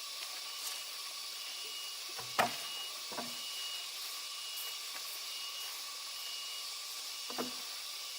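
Steady high hiss of outdoor background noise with a faint high tone pulsing on and off, broken by a few short light knocks, the loudest about two and a half seconds in.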